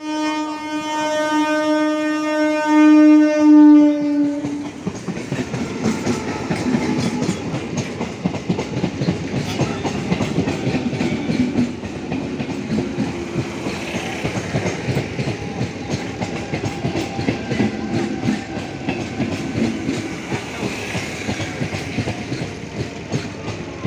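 Electric multiple unit train's horn sounds one steady blast of about four and a half seconds, loudest just before it stops. Then the coaches roll past with a fast, continuous clatter of wheels over the rails.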